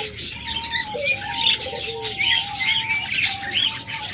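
A room of caged pet birds calling together, mainly budgerigars chirping and chattering. Many quick high chirps and clicks run over a string of short, level lower notes.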